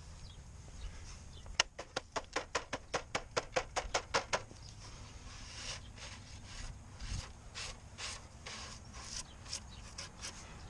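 A tool scraping wax and propolis off a beehive screen: a quick run of sharp clicks, about five a second, for a few seconds, then slower rasping strokes.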